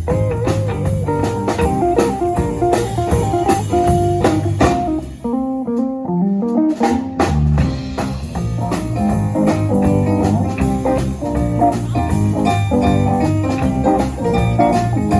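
Small jazz combo playing a bluesy swing tune, with guitar prominent over bass and drum kit. About five seconds in most of the band drops out briefly, then it comes back in.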